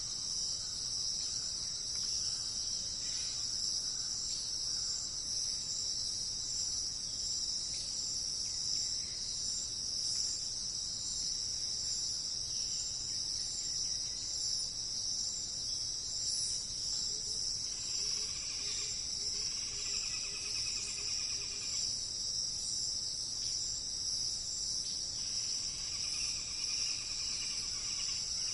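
Steady, high-pitched insect chorus droning without a break, with faint bird trills coming and going in the background, a little louder about two-thirds of the way through and again near the end.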